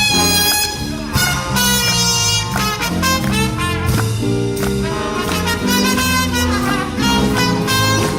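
A big band playing swing jazz live, with saxophones and brass carrying the melody over a walking bass line.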